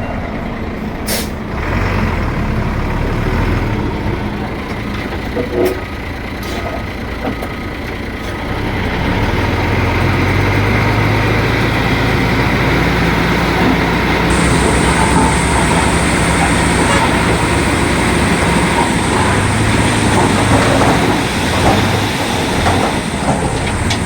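Heavy diesel earthmoving machinery running and working, louder from about nine seconds in, with a high steady whine joining about fourteen seconds in.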